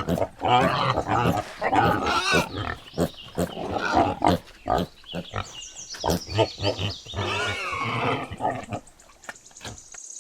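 Piglet grunting and squealing in a rapid, irregular series, thinning out and quieter near the end.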